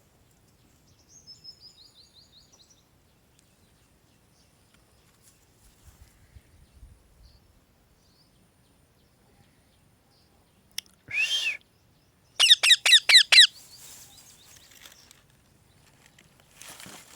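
Parrot calling: a faint run of quick falling chirps in the first seconds, one loud call about eleven seconds in, then a rapid string of about seven loud, sharp whistled notes, the loudest part.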